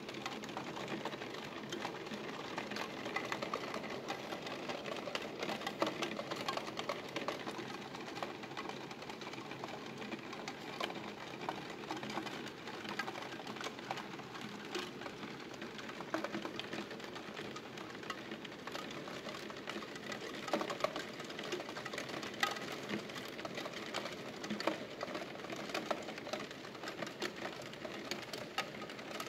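Steady rain pattering on a window, a continuous hiss scattered with many small, sharp drop ticks.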